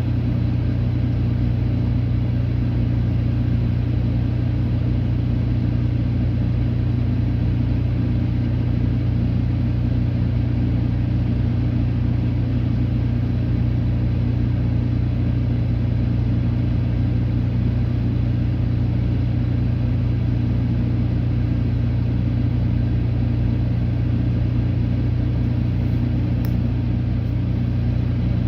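A steady low mechanical hum that does not rise or fall.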